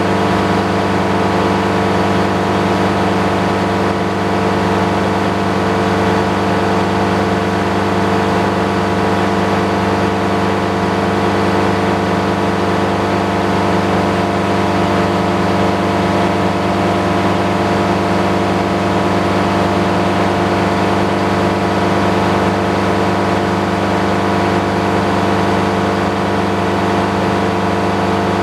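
Sawmill engine running steadily at a constant speed with an even drone, without a change in pitch.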